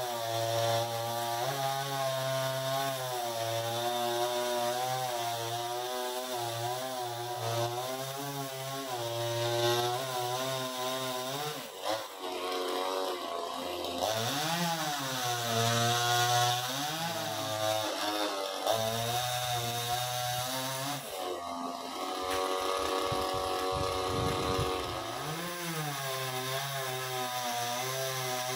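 Chainsaw cutting through a coconut palm trunk, its engine pitch repeatedly dropping under load and rising again. About two-thirds through it holds a steady pitch for a few seconds over a low rumble, then revs and cuts again.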